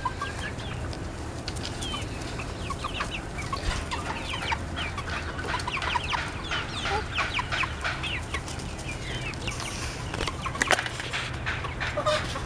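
A flock of young chickens clucking and chirping, many short calls overlapping without pause.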